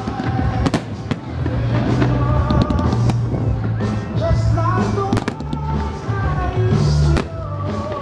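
Fireworks going off in sharp bangs and crackles, several times, over loud Christmas pop music with a heavy bass beat.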